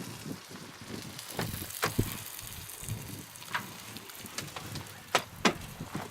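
Wind rumbling on an outdoor microphone, with a few sharp clicks and crackles scattered through it. The loudest clicks come as a pair about five seconds in.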